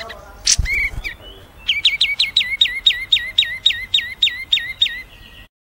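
A small songbird repeats a quick, high whistled note that slides downward, about four times a second for a few seconds, then stops abruptly. It is preceded by a brief knock and a few scattered chirps.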